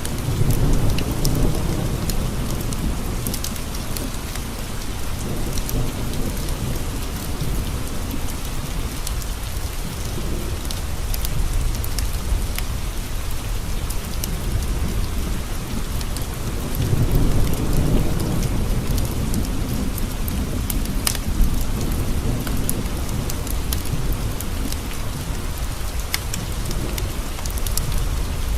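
Steady rain pattering on window glass with low thunder rolling twice, once near the start and again about two-thirds of the way through, and small sharp ticks scattered throughout.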